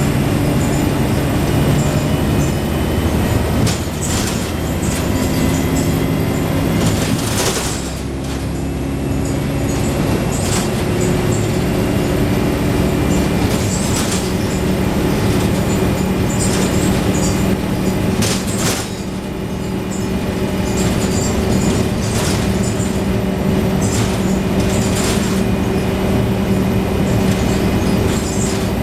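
Scania N113 double-decker bus's diesel engine and body heard from on board while the bus drives, the engine note changing pitch a few times as the gearbox shifts. The body rattles, with occasional sharp knocks and clatters.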